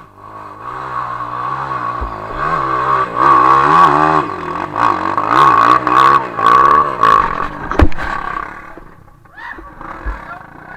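Off-road trail motorcycle engine revving up and down over and over as the rider works the throttle through deep mud, with a sharp knock about eight seconds in, after which the engine sound dies down.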